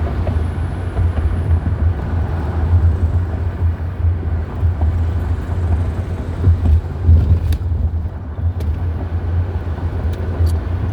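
Steady low rumble of a car driving, heard from inside the cabin, with a few faint ticks in the second half.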